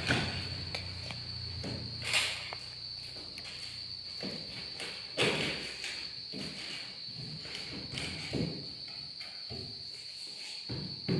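Crickets chirping steadily in the background, a continuous high-pitched trill, with a few scattered thumps and rustles of things being handled.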